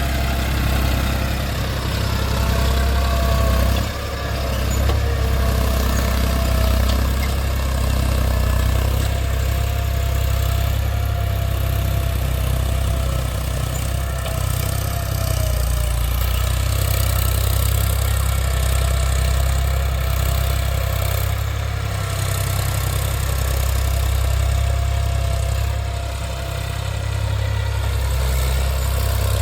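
Eicher tractor's diesel engine running steadily, with a thin wavering whine above its low drone.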